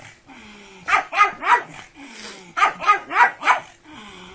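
Pug barking up at a person in two quick runs of short yappy barks, about three and then four.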